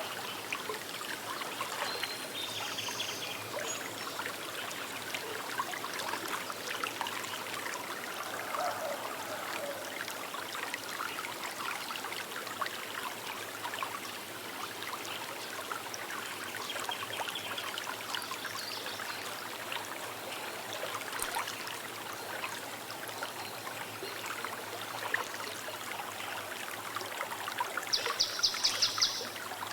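Small river's water running and trickling steadily, a busy crackle of tiny splashes. A few short bird calls sound over it, the loudest a quick high trill near the end.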